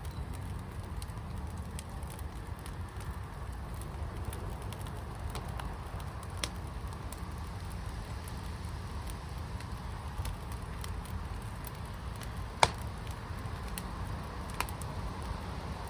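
Wood fire in a firepit crackling, with scattered small pops over a steady low rumble and one sharp, loud pop about two-thirds of the way through.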